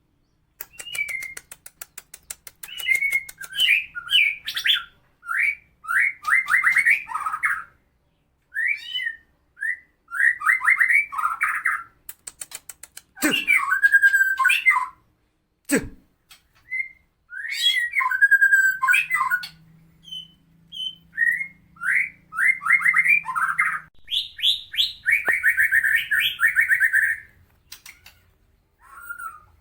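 White-rumped shama of the Medan type singing harsh, rough song in repeated bursts: fast whistled phrases mixed with rapid clicking rattles, broken by short pauses.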